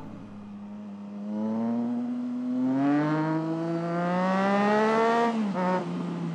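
Triumph Trident 660's three-cylinder engine pulling hard under acceleration, its pitch climbing steadily for about four seconds, then dropping sharply at an upshift near the end and running on at the lower pitch.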